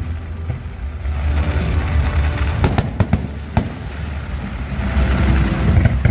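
Aerial fireworks display: a continuous deep booming rumble of shell bursts, with a quick cluster of sharp cracks about three seconds in.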